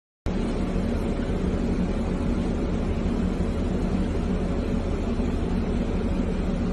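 Steady engine and road noise of a car driving, picked up by a dashcam, cutting in abruptly after a moment of dead silence, with a low steady hum.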